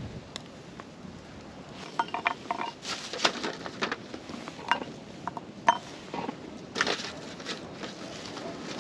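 Dishes and utensils being handled: scattered clicks and short ringing clinks. They come thickest about two to three and a half seconds in and again around seven seconds in.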